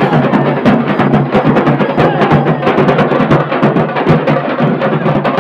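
Dhol-tasha band drumming: tasha drums beaten with sticks in fast, dense strokes over dhol drums, loud and unbroken.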